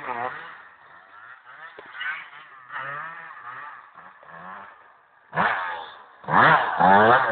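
Motocross bike engine revving with a buzzy, wavering pitch: faint for the first few seconds, then a loud burst about five seconds in and loud, revving hard again from about six seconds in.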